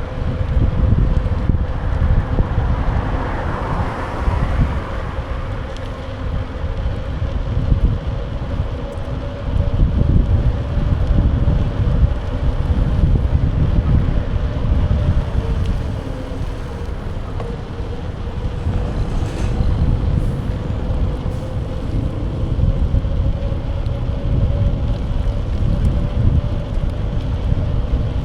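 Wind rushing over a bike-mounted action camera's microphone while riding, with a faint steady hum underneath.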